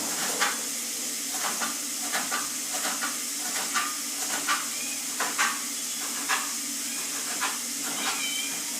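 Onions and garlic frying in a covered pot: a steady sizzle broken by irregular sharp clicks and pops.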